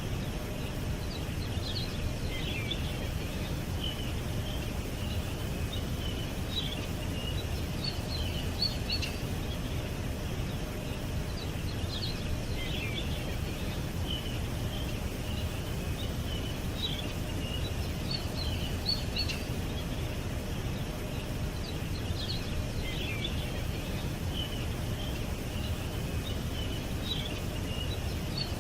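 Birds chirping in short high calls that come in clusters every second or two, over a steady low rumble of background noise.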